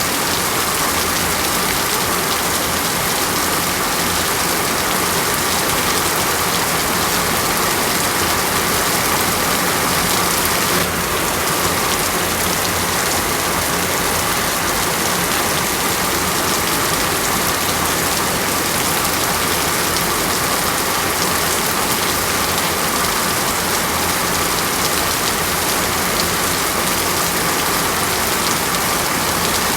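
Steady rain falling on a surface: a dense, even hiss with no change in strength.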